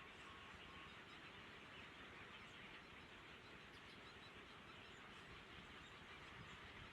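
Near silence: a faint steady outdoor hiss with a few faint, short high chirps, and a faint repeating tone in the first second.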